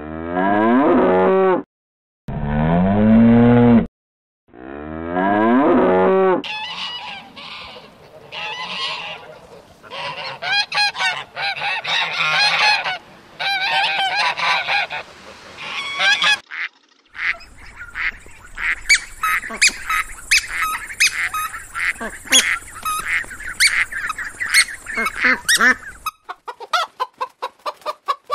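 A cow mooing three times in long calls, then a flock of domestic geese honking in many short, overlapping calls. Near the end a hen clucks in quick, even pulses.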